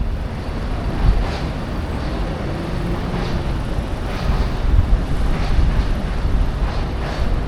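Outdoor station-front city ambience: a steady wash of traffic and town noise, with gusty wind rumbling on the microphone.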